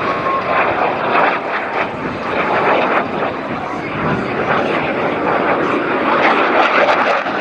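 Jet noise from Blue Angels Boeing F/A-18 Super Hornets passing low: a loud, rough roar with a crackling edge.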